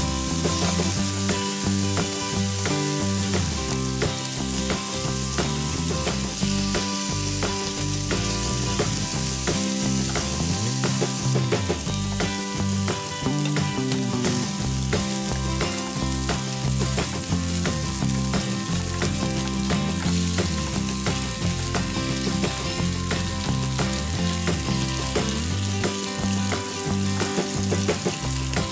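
Pork belly and bacon strips sizzling in a hot nonstick frying pan, a steady hiss dotted with many small crackles and pops of spitting fat.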